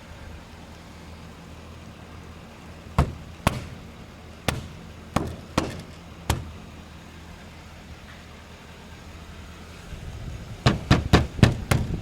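A 2008 Ford Crown Victoria police car's 4.6-litre V8 idling steadily, with sharp knocks: six spread out between about three and six seconds in, then a quick run of louder ones near the end.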